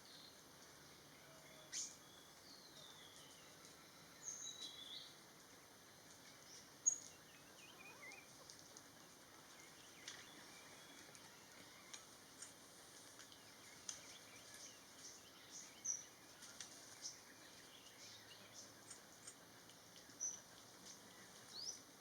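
Quiet tropical forest ambience with faint, scattered short, high-pitched bird chirps and a few brief gliding notes, every second or so.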